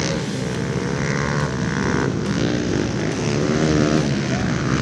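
Several small pit bike engines revving, their pitch rising and falling as the bikes accelerate and shift.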